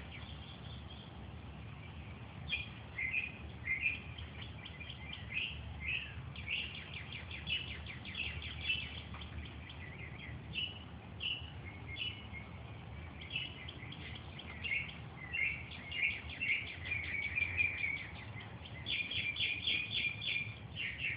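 Several songbirds singing, with repeated rapid chirps and trills and a faster trilled run near the end, over a steady low background rumble.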